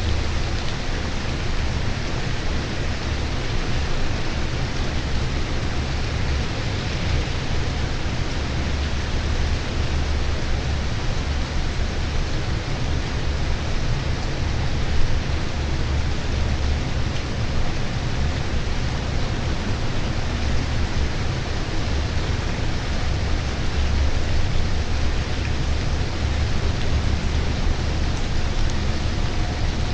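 Steady rain falling: a dense, even hiss with a deep low rumble underneath, and one brief louder tap about halfway through.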